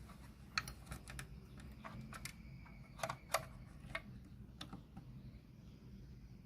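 Irregular light clicks and taps of small hard objects being handled, about ten of them spread over several seconds, over a low steady hum.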